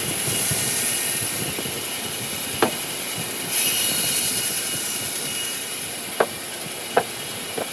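A woodworking machine running with a steady hiss that swells twice, with four short sharp knocks in the second half.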